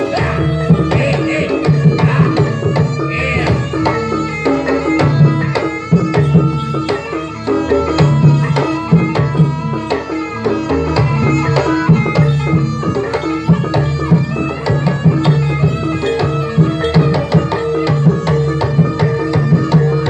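Javanese jaranan gamelan music: fast, dense hand-drumming on kendang over held gong and metallophone tones, playing without a break.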